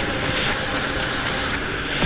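A jet ski's engine running steadily, a continuous noisy drone without a clear beat.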